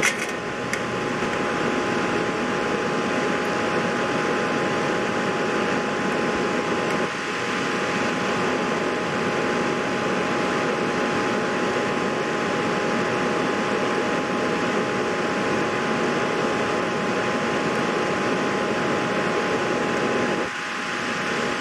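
Steady fan-like whir with a faint continuous two-tone hum. It dips briefly about seven seconds in and drops a little near the end.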